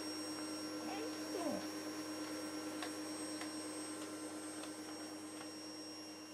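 Vacuum cleaner running with a steady hum, with a brief falling whine about a second and a half in and a few faint clicks. The sound slowly fades down toward the end.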